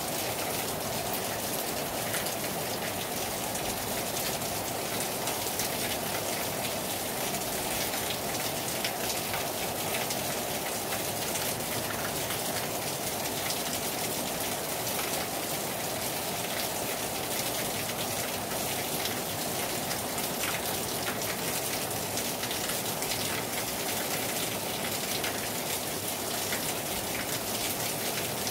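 Heavy rain falling hard and steadily on a terrace: a constant rush of rain with many individual drops striking close by.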